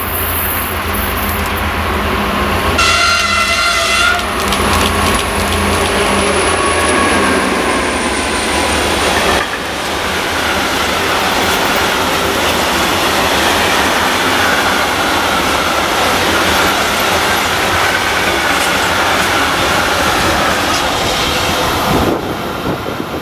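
Class 241 diesel locomotive of the Ludmilla family gives one short horn blast about three seconds in, then passes hauling a long train of tank wagons. The wagons' steady rolling noise goes on until it drops away shortly before the end.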